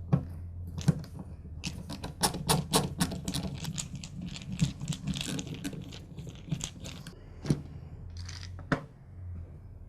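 Rear plastic cover and housing of a DeWalt D28402 angle grinder being worked loose and handled: a run of irregular small clicks and taps, densest in the first half.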